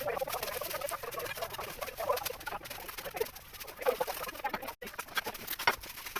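Birds calling in short repeated calls, with many brief clicks.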